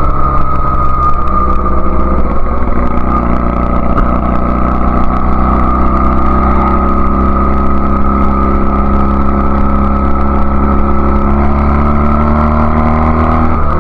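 A 1999 Honda Rebel CA125's twin-cylinder engine running steadily through an aftermarket BSM/Highway Hawk exhaust. The note climbs a little in the last few seconds. The Keihin PD carb is jetted with a 102 main jet and the needle clip is in position 1, being tested for bogging between quarter and three-quarter throttle.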